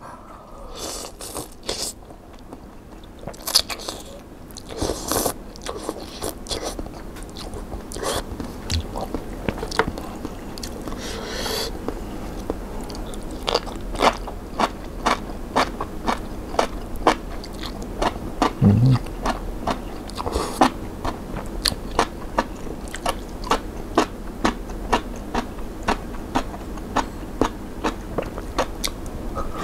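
Close-up eating sounds: a few slurps of glass noodles in the first seconds, then steady crisp crunching of enoki mushrooms being chewed, about one or two crunches a second, from around the middle on.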